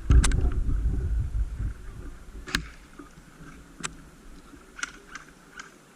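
Scattered sharp pops of airsoft guns firing, about six at irregular intervals. For the first two seconds or so they sit over a low rumble of wind on the microphone, which then dies down.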